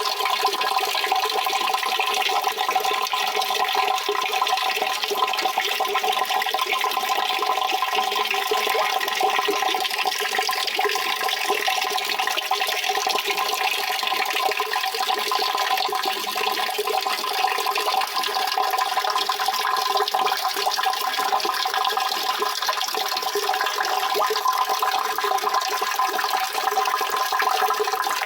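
Running water rushing steadily, an even, unchanging noise.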